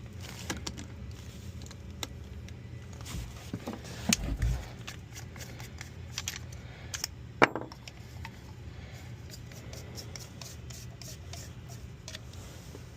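Scrapes, rubs and scattered sharp clicks of hands working at the condensate drain line and float switch, with a louder knock about seven seconds in. Under it runs the steady low hum of the air conditioning unit, which is running again.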